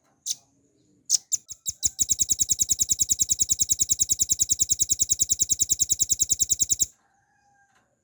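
Velvet-fronted nuthatch calling: a few spaced sharp notes that speed up into a rapid, very even trill of about eight notes a second, which lasts about five seconds and cuts off suddenly.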